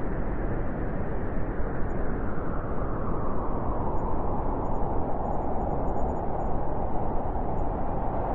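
Howling blizzard wind: a steady, loud rushing noise whose howl drifts slightly lower in pitch.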